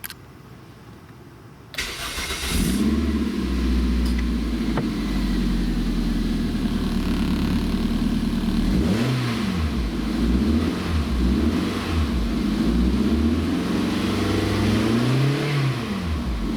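An engine starts about two seconds in and settles into a steady idle. The revs are blipped up and let fall back several times, most clearly around the middle and near the end.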